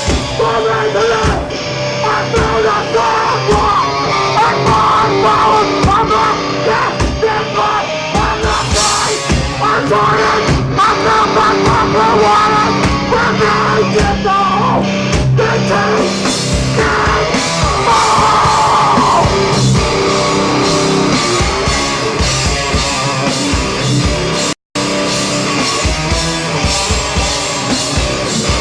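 Hardcore band playing live, with loud distorted guitars and shouted vocals. The sound cuts out for an instant about three quarters of the way through.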